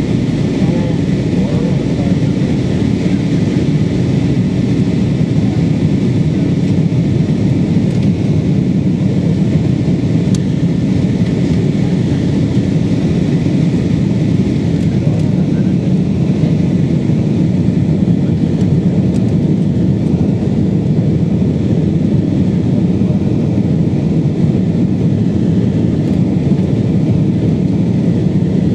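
Steady, deep drone of an airliner's engines and rushing air heard from inside the passenger cabin in flight, even and unchanging throughout.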